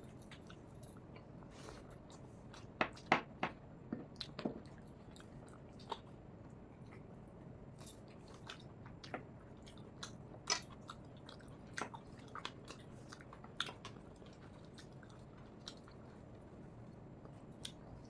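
Close-up chewing and biting of rice and tough country chicken, with scattered small crunches and wet clicks, a cluster of louder ones about three to four seconds in.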